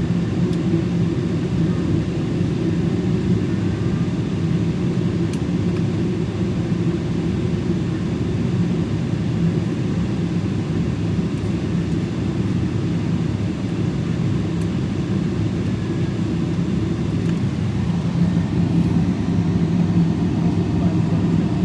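Steady low rumble of a Boeing 777 heard inside the passenger cabin.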